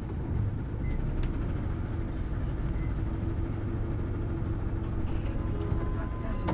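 Hino Blue Ribbon City Hybrid bus running: a steady low drone, with a faint whine that comes in about two seconds in and rises slightly near the end.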